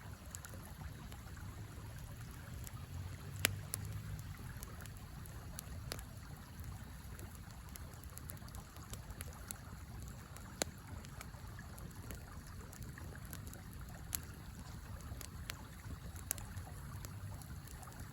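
Campfire crackling, with a handful of sharp single pops spread a few seconds apart, over the steady low rush of a flowing river.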